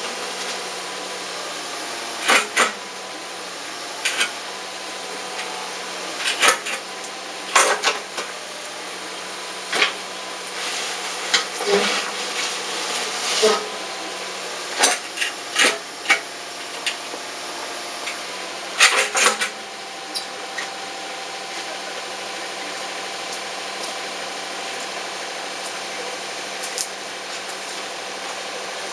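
Stones knocking and scraping against each other as they are handled and set: irregular sharp knocks, some in quick pairs, thinning out after about twenty seconds.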